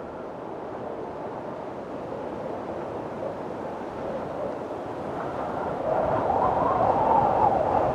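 Windstorm: strong wind blowing steadily, swelling into a louder gust in the second half.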